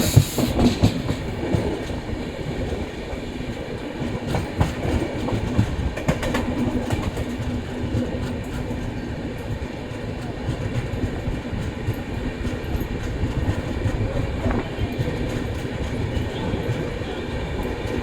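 Train rolling on the rails: a steady rumble of wheels and carriages, with scattered clicks from the wheels over rail joints.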